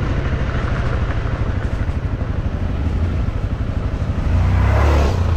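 Off-road motorcycle engine running under way, its exhaust pulsing steadily, then revving up and getting louder about four and a half seconds in.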